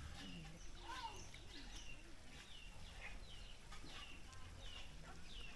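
Birds chirping over and over, short high notes that fall in pitch, about two a second, with faint voices in the background.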